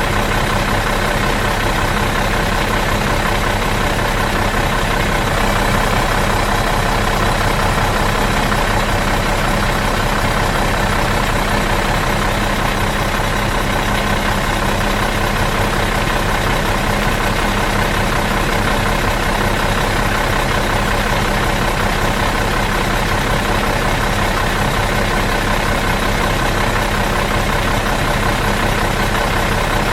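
Bus engine idling steadily in neutral, an even, unchanging drone with a low rumble.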